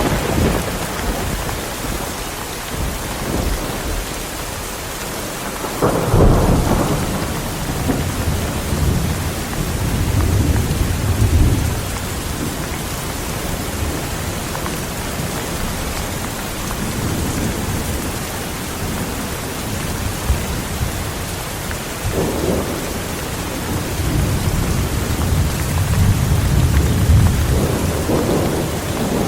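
Heavy rain falling steadily, with rolls of thunder over it: a rumble at the start, a loud one about six seconds in that rolls on for several seconds, and another building a little past twenty seconds that rumbles on toward the end.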